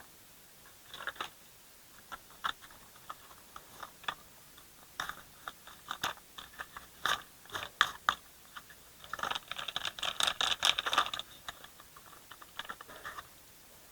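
Toy dump truck and its load being handled: irregular light clicks and crunchy scraping, with a denser run of scraping for about two seconds about two-thirds of the way through.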